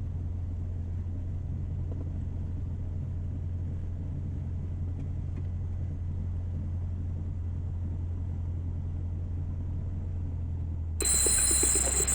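Cessna 172's piston engine running at low taxi power, a steady low drone. About eleven seconds in, a loud burst of hiss lasts about a second and a half.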